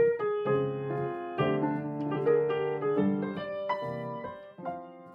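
Piano music: gentle chords and melody notes struck one after another, each ringing and fading, growing quieter near the end.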